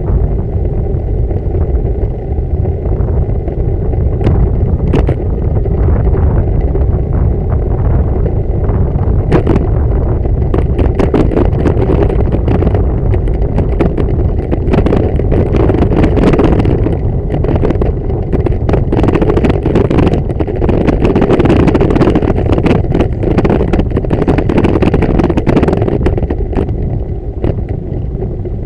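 Bicycle ride: a steady loud low rumble of wind and road on the microphone. From about ten seconds in there is a dense rattle of clicks, which dies down near the end.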